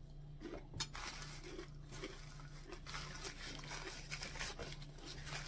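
Close chewing and crunching of crisp cooked dried fish, eaten by hand, with small irregular crackles throughout.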